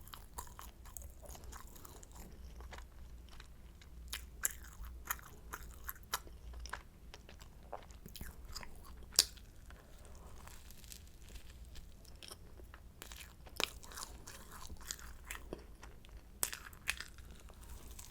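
Close-miked chewing and biting of flaky croissant pastry, with irregular sharp crisp crunches and crackles, the loudest about halfway through.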